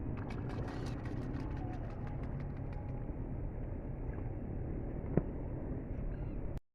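Steady low rumble of wind and water noise on an inflatable boat out on open water, with a few faint ticks early on and one sharp click about five seconds in. The sound cuts out abruptly near the end.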